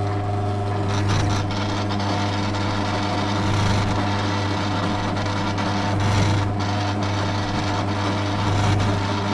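Electric power tool running steadily on a sheet-steel car bracket, with a constant hum and a scraping edge that swells and eases every couple of seconds.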